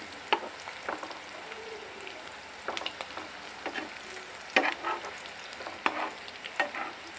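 Taro slices sizzling as they fry in oil in a frying pan, with a spatula scraping and tapping against the pan every second or so as the pieces are turned.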